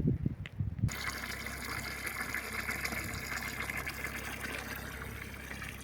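A few low thumps, then from about a second in a steady rush of flowing water, as of a mountain stream, starting suddenly.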